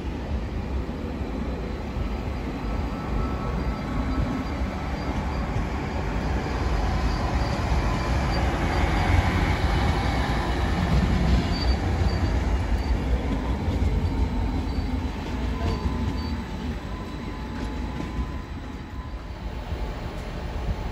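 Stadler FLIRT multiple unit running past: a steady rumble of wheels on rail with faint high thin tones, loudest about ten seconds in and fading near the end.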